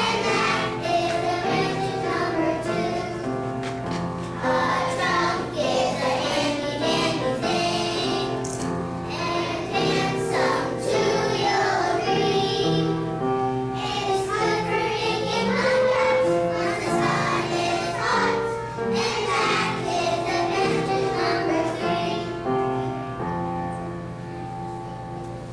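A group of young children singing a song together over instrumental accompaniment, growing quieter near the end.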